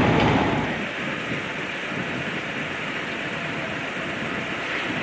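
A loud vehicle rumble dies away within the first second, leaving a steady hiss of street noise.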